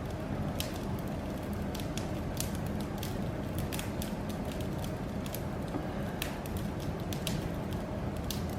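Wood fire in a fireplace crackling, with sharp pops at irregular intervals over a steady low rumble of flames.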